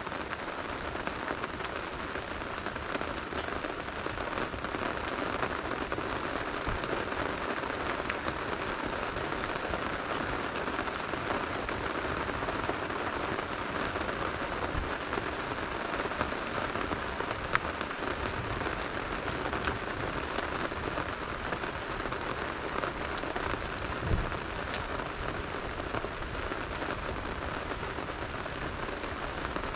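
Steady rain falling on a surface, an even hiss with many small sharp ticks of drops scattered through it; one louder tick about halfway through and a dull low knock a few seconds later.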